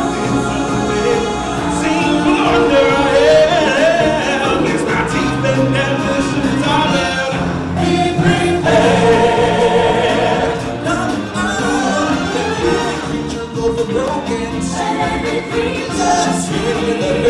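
Ensemble of singers performing a choral song over instrumental backing in a live stage musical.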